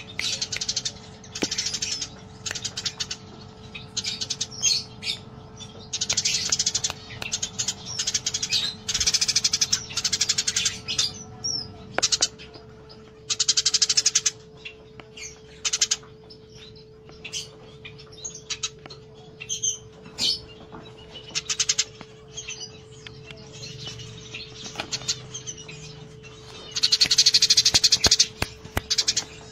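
Eurasian tree sparrows chirping in rapid, excited bouts of a fraction of a second to a few seconds each, with short pauses between, over a steady low hum.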